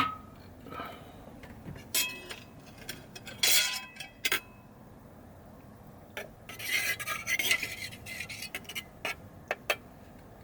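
Kitchen utensils handled while cooking: a metal spoon clinks and taps against a jar and pot, some clinks ringing briefly. Past the middle comes a couple of seconds of scraping and stirring, then a few light clicks near the end.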